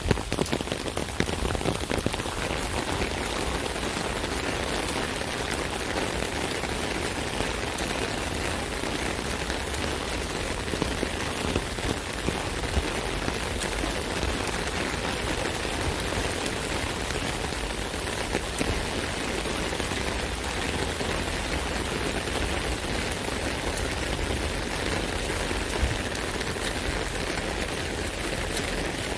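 Steady rain falling on an umbrella canopy, a dense patter of drops with a few louder drop hits now and then.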